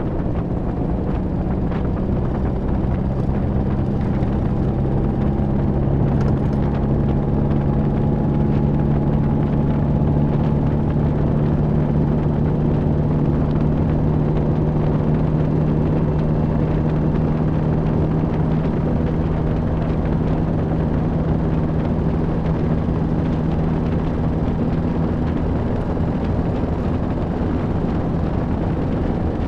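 MG TD's 1.3-litre XPAG four-cylinder engine pulling the open roadster at a steady cruise, its note holding an even pitch, with road and wind noise around it.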